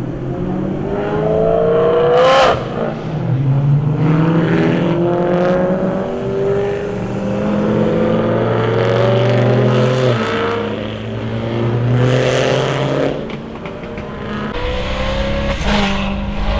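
Car engines revving hard, the pitch climbing in several pulls, with a few sharp cracks in between.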